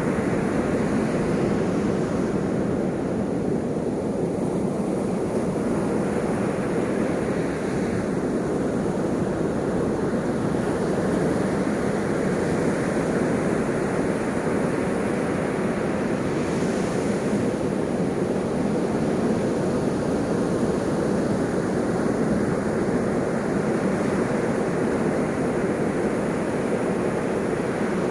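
Ocean surf: waves washing in a continuous rushing hiss that swells and eases slowly.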